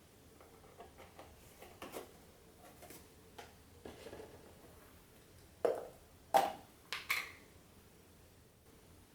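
Kitchen things handled while making coffee: light clicks and taps, then three sharper knocks with a short ring, about half a second apart, just past halfway.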